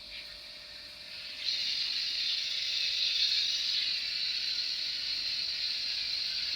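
Steady steam hiss from the small speaker of an N gauge DCC sound steam locomotive, growing louder about one and a half seconds in and then holding.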